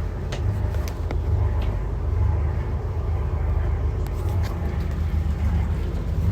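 A motor running steadily with a low, even rumble, with a few light clicks and knocks over it.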